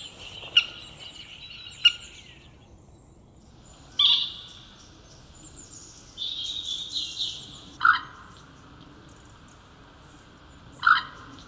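Small birds singing and calling in waterside vegetation: short trilled phrases and a few sharp single calls, the loudest about eight and eleven seconds in.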